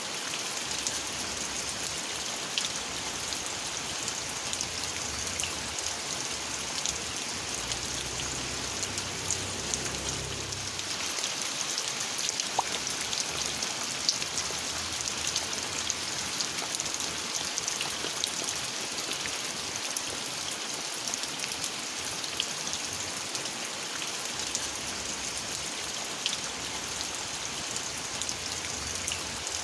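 Steady rain falling, a constant hiss dotted with the ticks of individual drops hitting surfaces. A faint low rumble passes about eight to eleven seconds in.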